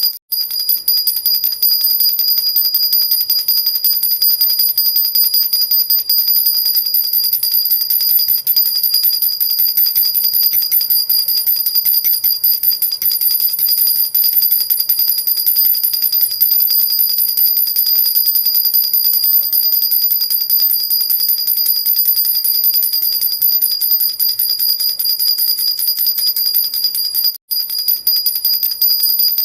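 Metal jhunjhuna baby rattle with small jingle bells, shaken continuously in a fast, even jingle with a high ringing shimmer. It drops out for an instant just after the start and again about two seconds before the end.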